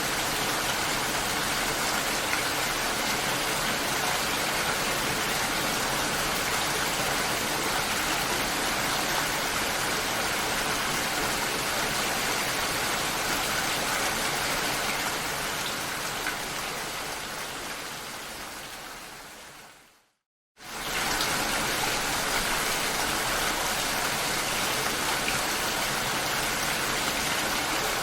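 Steady, dense rain. It fades out over a few seconds to a brief silence about 20 seconds in, then cuts straight back in at full level, as at the seam of a looped recording.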